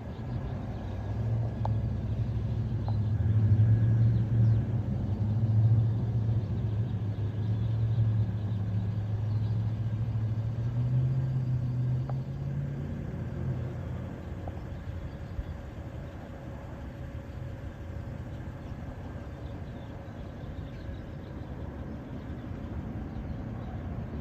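A garbage truck's engine running, loud for the first half with a slight rise in pitch about twelve seconds in, then fading to a low, steady rumble.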